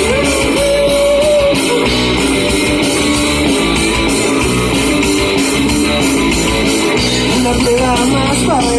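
Live rock band playing an instrumental passage: electric guitar lines over bass and drums with steady cymbal hits.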